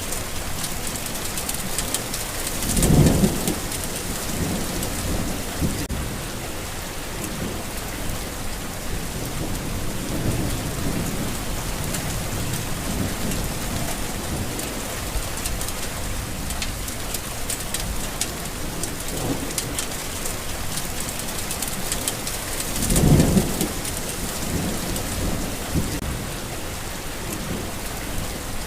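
Steady rain falling, with thunder rumbling twice, a few seconds in and again toward the end.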